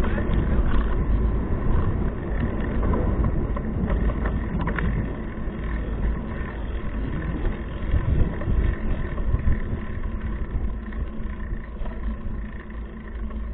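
Steady wind buffeting and road rumble on the microphone of a handlebar-mounted action camera on a moving bicycle, with a few brief clicks.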